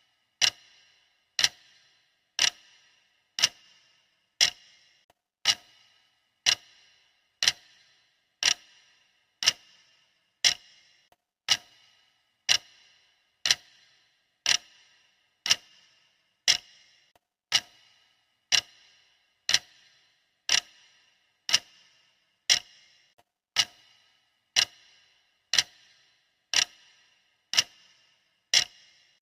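Clock ticking steadily, one sharp tick a second with a brief ring after each.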